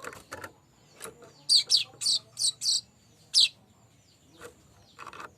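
Manyar kembang weaver calling: a quick run of about five sharp, high chirps in the middle, then a single chirp, with softer, lower chatter near the start and end.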